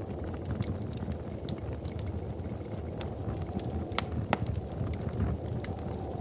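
Wood fire in a fireplace crackling, over a steady low rumble of the flames, with scattered sharp pops; the two loudest come about four seconds in.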